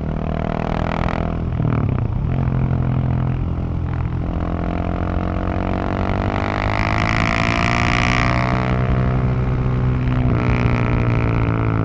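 Husqvarna 701 supermoto's single-cylinder engine and exhaust running under way. The pitch dips briefly about two seconds in, and the revs rise and ease back between about six and nine seconds.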